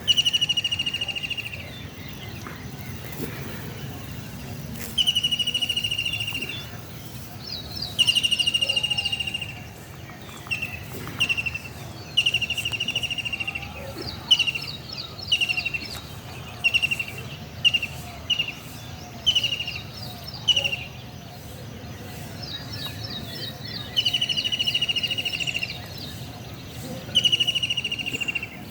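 Birds calling: a repeated buzzy trill about a second and a half long alternates with a higher, faster trill, and through the middle comes a run of short notes about one a second. Under the calls is a steady low background noise.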